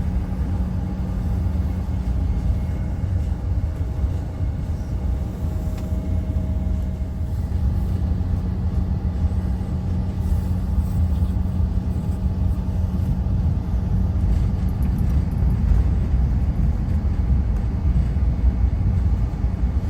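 Cabin noise inside a CRJ900 regional jet on the ground after landing: a steady low rumble with a constant hum from the rear-mounted GE CF34 turbofans turning at low power as the jet rolls along the taxiway.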